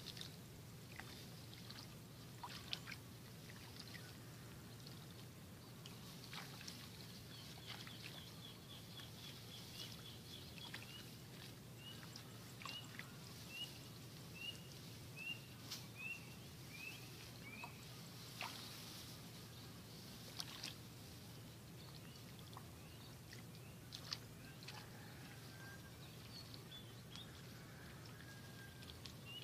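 Faint open-field ambience with a bird calling: a fast run of high notes, then a series of about ten short notes, each a little lower in pitch. Scattered rustles and snaps from rice plants as weeds are pulled among them.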